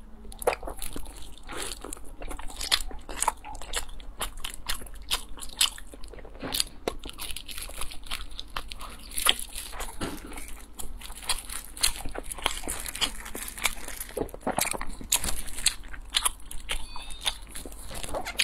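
Close-miked eating of a fried, filled bread roll: bites and chewing with crunches and wet mouth clicks, coming irregularly several times a second.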